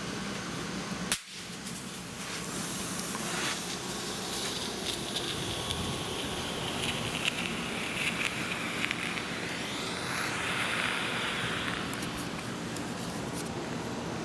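Dominator red smoke grenade burning: a sharp click about a second in, then a steady hiss of smoke pouring out with scattered crackles, shifting in pitch near the end.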